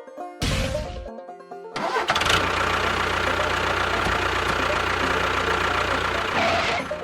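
An engine sound: a short burst about half a second in, then an engine starting and running steadily for about five seconds before cutting off, with background music.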